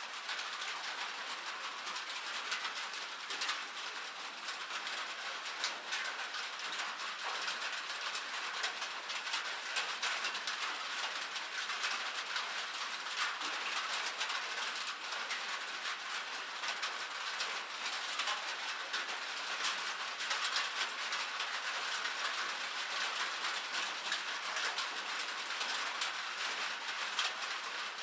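Steady rain, with many individual drops pattering as small sharp ticks over a constant hiss.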